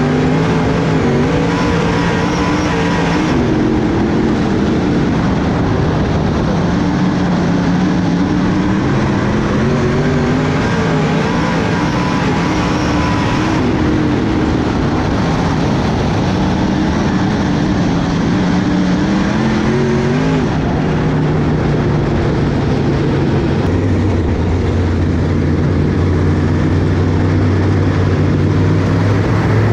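Dirt-track race car engine running hard, its pitch rising and falling every few seconds as the throttle is opened and lifted through the corners. It settles to a steadier, lower drone for the last few seconds.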